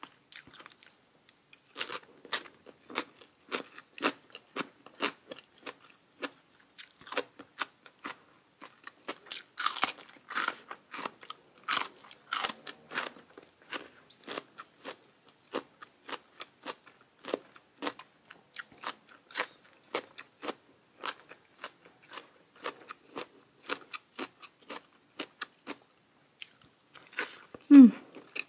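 A person chewing crisp food close to the microphone: an irregular run of crunchy bites and chews, about one or two a second, loudest about a third of the way in. Near the end there is one short, loud vocal sound that falls in pitch.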